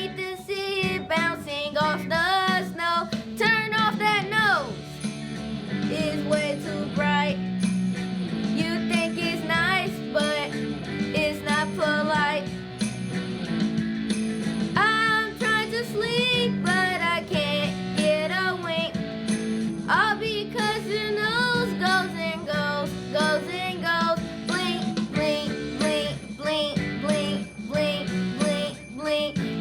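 A Christmas song: voices singing a melody over sustained instrumental accompaniment, with jingle bells. The singing pauses briefly a few times between phrases while the accompaniment carries on.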